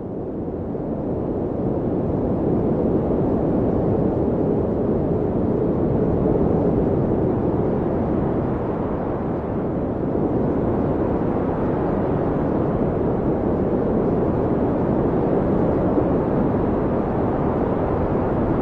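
Blizzard wind blowing as a steady, low rushing noise with slight swells, fading in over the first couple of seconds.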